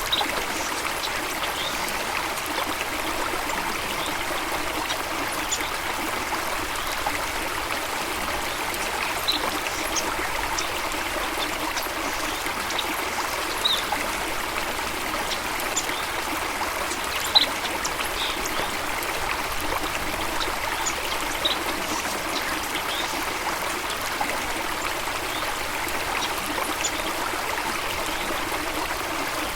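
Running water from a stream or small waterfall, a steady rushing and trickling, with brief high bird chirps scattered over it.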